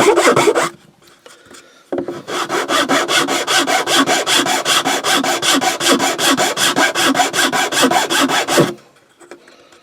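A file rasping against wood in a quick, even rhythm, smoothing the sides of a wooden piece. It stops for about a second near the start, then runs on until shortly before the end.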